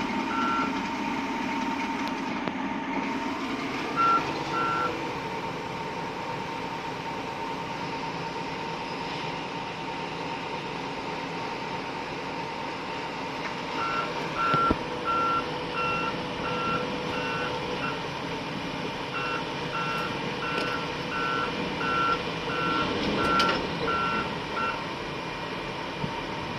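Volvo excavator's engine and hydraulics running with a steady whine, while its warning alarm beeps in runs, about one and a half beeps a second: two short runs in the first few seconds and two longer runs in the second half.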